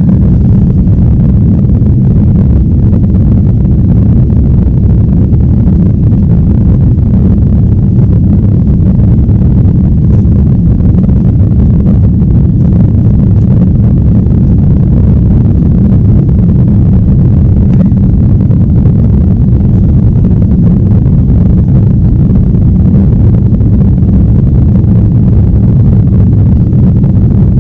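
Jet airliner cabin noise: a loud, steady, low rumble that does not change.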